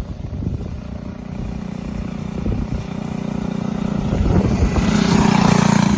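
Motovox Platinum mini bike's small engine running as it is ridden, growing louder over the last couple of seconds.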